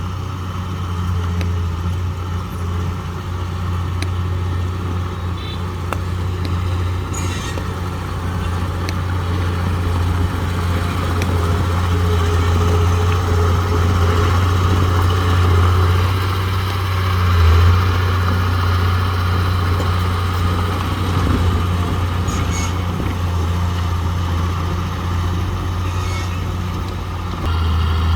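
Heavy diesel engine of earth-moving machinery running steadily with a deep drone that slowly grows louder, with a few brief sharp noises over it.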